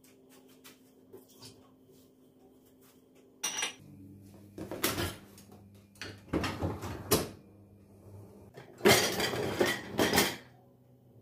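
Dishes and cutlery clattering as they are handled, in several separate bursts; the longest and loudest comes near the end.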